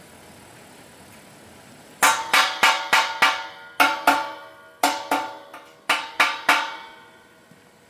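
Steel being struck repeatedly, about thirteen sharp ringing blows in quick groups of two to five, starting about two seconds in and stopping near the end.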